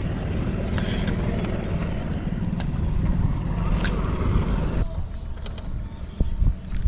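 A small boat's motor running on the water, a steady low rumble with wind hiss on the microphone. About five seconds in, the hiss drops away abruptly, leaving the low rumble and a few knocks.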